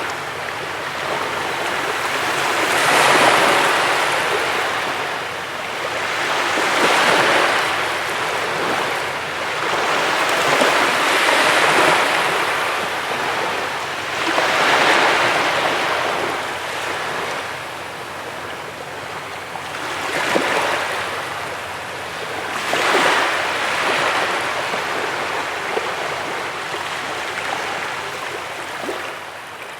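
Sea waves breaking and washing onto a beach, the surf swelling and easing about every four seconds.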